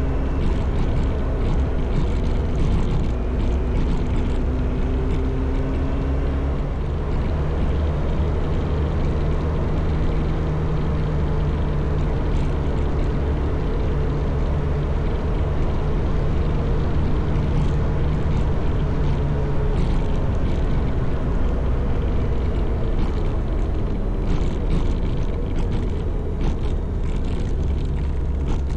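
Motorcycle engine running under way with a steady rush of wind noise, the engine note shifting in pitch a few times as the bike rides on.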